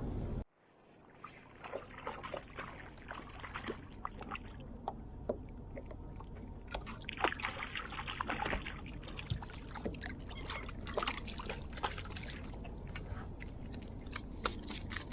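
Water splashing and dripping around a kayak, with many small irregular ticks and light knocks. A steady background noise cuts off abruptly about half a second in.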